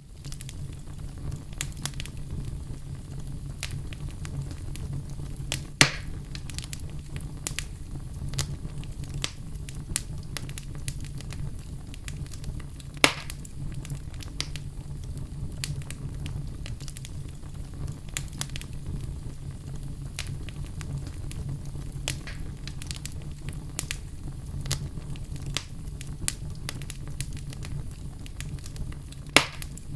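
Wood fire crackling in a fireplace: a steady low rumble of burning with frequent small sharp pops, and three louder snaps spread through.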